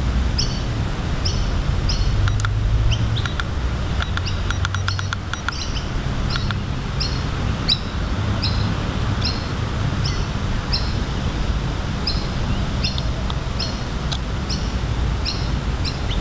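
A bird calling over and over, short high chirps about twice a second, with a quick run of clicking notes about four seconds in. A steady low rumble runs underneath.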